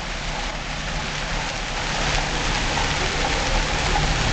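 Hailstorm at full strength: a dense clatter of countless hailstones hitting the ground and surfaces, growing steadily louder, with a low steady hum underneath.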